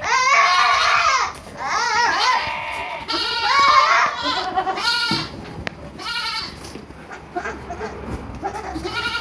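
Goats bleating: a series of loud, wavering bleats one after another through the first five seconds, then shorter and fainter calls, with one more bleat near the end.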